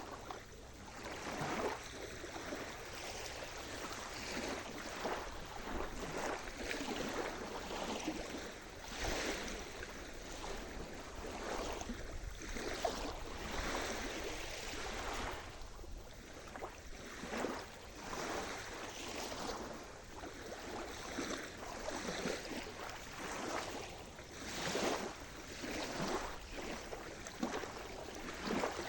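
Sea surf: small waves washing in continuously, with irregular splashes about every second or two.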